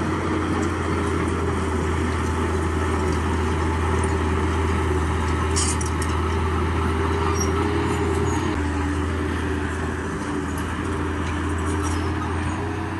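Heavy earthmoving machinery's diesel engine running steadily with a deep hum, its pitch dropping a little about eight and a half seconds in.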